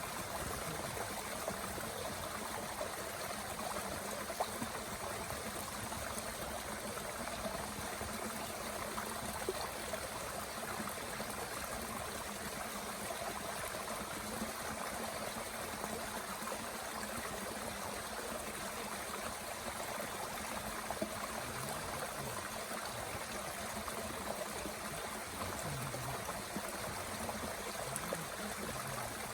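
Mountain stream flowing steadily, with a few sharp crackles from a small wood fire burning in a Bush Box stove.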